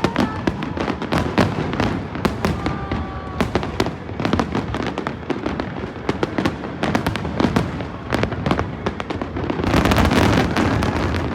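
Fireworks going off in a rapid run of sharp cracks and pops, swelling into a loud, dense crackling barrage about ten seconds in.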